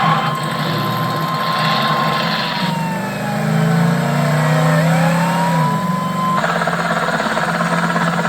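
Film car-chase soundtrack: car engines running and revving, with a police siren wailing over them. The sound changes abruptly twice, at edits between shots.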